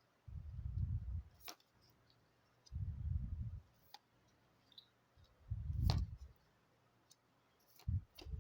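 Cards being handled and laid out on a table: four short, dull thumps with a few sharp clicks in between.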